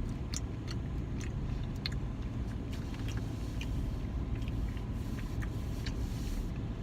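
A person eating a Dairy Queen Blizzard: scattered small clicks of spoon and chewing over a steady low rumble.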